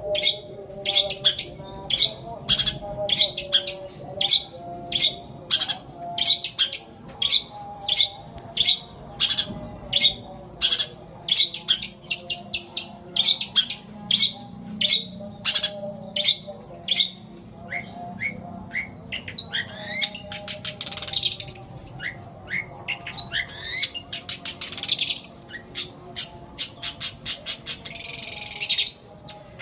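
Long-tailed shrike singing a long run of mimicked calls, including sparrow imitations. It opens with sharp chirps repeated about twice a second, then moves to sweeping rising phrases and a fast buzzy trill near the end.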